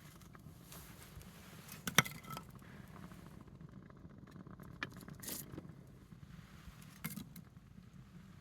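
Wood campfire burning with a few sharp pops and cracks, the loudest about two seconds in, over a low steady background.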